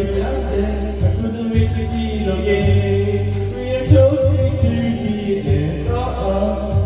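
A pop song with a voice singing over a backing track with a repeating bass line.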